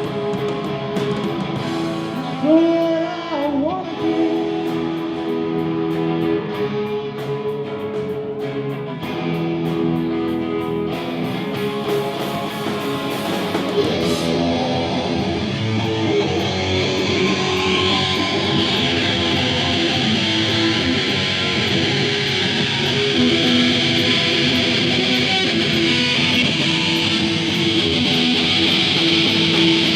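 Live rock band playing an instrumental passage led by guitar, with a last sung note in the first few seconds. From about halfway through the band plays fuller and brighter and keeps building.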